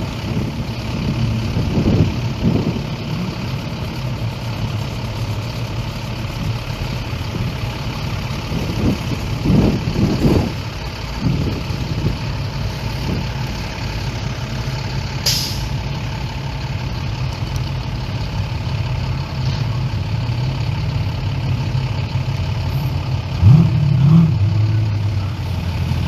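Car and truck engines in a slow parade, running and idling as they pass, with several revs; one rises in pitch near the end. A brief sharp hiss about halfway through.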